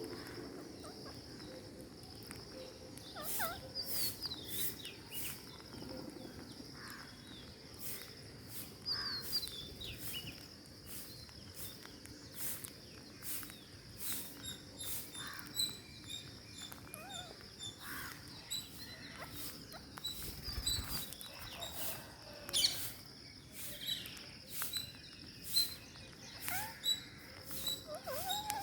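Ring-necked parakeets giving short chirps and squeaks amid frequent sharp clicks and taps, with a run of quick, high, repeated peeps in the second half.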